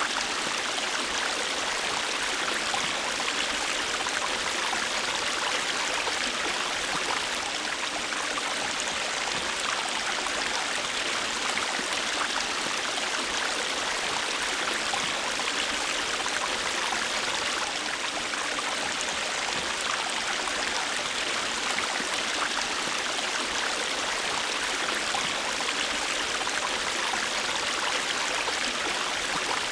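River water flowing over rocks: a steady rushing with fine splashing and trickling detail, even throughout.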